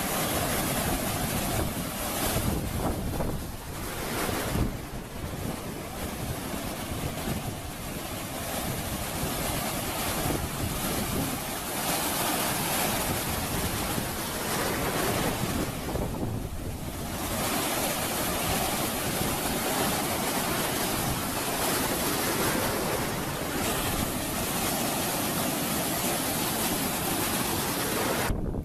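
Ocean surf breaking and washing in, swelling and easing, with wind buffeting the microphone.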